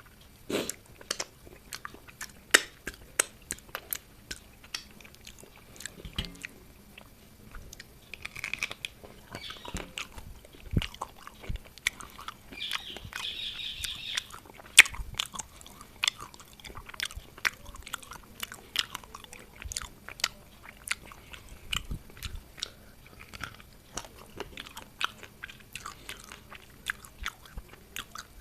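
Close-up eating sounds of a fish head in curry being broken apart and chewed: irregular crunches, wet mouth clicks and chewing.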